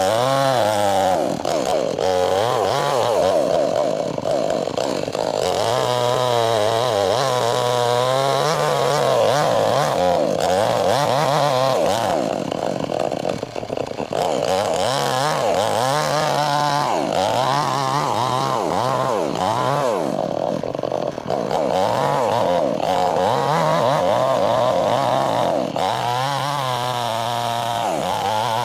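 Chainsaw ripping a log lengthwise, the engine running under load with its pitch wavering up and down as the bar bites and eases, with two brief dips in speed around the middle.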